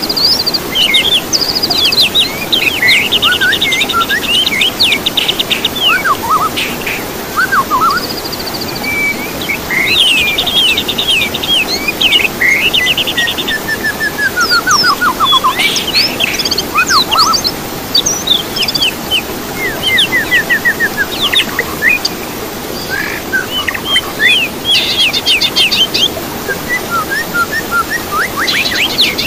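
Songbirds singing and calling in a dense mix: rapid trills, quick whistled chirps and a falling run of notes, over a steady background hiss.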